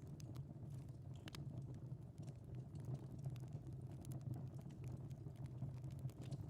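Wood fire in a fireplace crackling: scattered sharp pops and snaps over a low, steady rumble of the flames.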